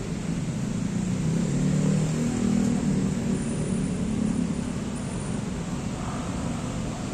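A low engine rumble that swells over the first couple of seconds and fades after about four and a half seconds, over a steady hiss.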